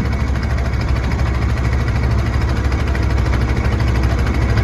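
Boat engine running steadily with a deep, even drone.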